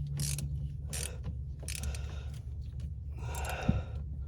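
Hand ratchet wrench clicking through a few strokes, about one a second, snugging down a nut, over a steady low hum.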